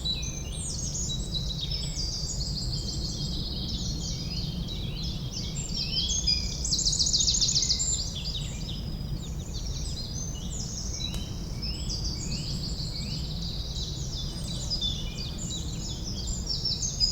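Several songbirds chirping and singing in a forest ambience over a steady low rumble, with a louder fast trill about seven seconds in.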